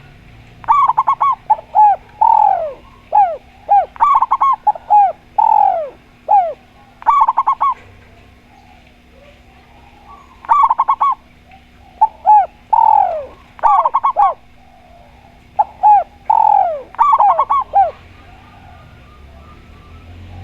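Doves cooing in repeated phrases: quick clusters of high coos mixed with longer notes that slide downward. The bouts of song break off for a couple of seconds near the middle, and the song stops shortly before the end.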